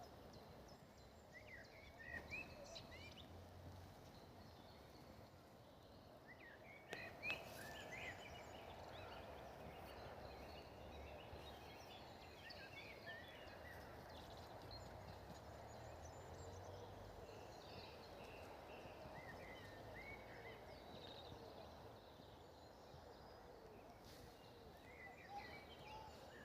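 Faint bird chirps scattered throughout, over a quiet, steady outdoor background noise, with a sharp click about seven seconds in.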